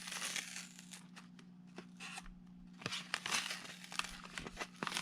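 Plastic blister pack of trading-card boosters being opened by hand: crinkling and tearing of plastic and card backing with scattered sharp clicks, busier from about three seconds in.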